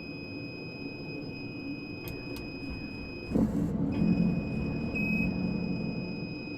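Helicopter cabin noise: a steady low rumble under a constant high-pitched whine. There are two light clicks about two seconds in, then a sudden short rush of noise about halfway, after which the rumble swells louder for a few seconds.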